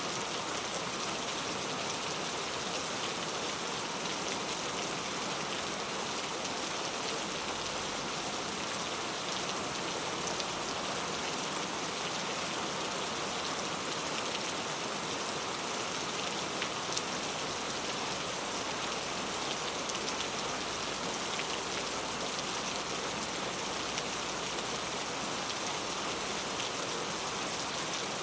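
Steady patter of precipitation falling on a surface, an even hiss dotted with fine ticks of individual drops.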